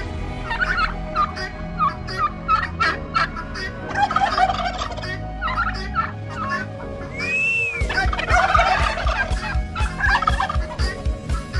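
Farm poultry calling, led by turkeys gobbling in repeated short bursts. A single rising-and-falling whistle-like call comes about seven seconds in.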